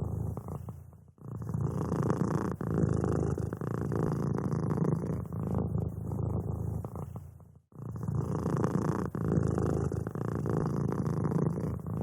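Cat purring in a continuous low rumble. It fades out briefly and starts again abruptly about a second in and again near eight seconds in.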